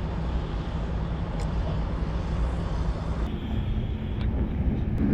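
Steady low mechanical rumble with an even hiss over it, during a lorry wash.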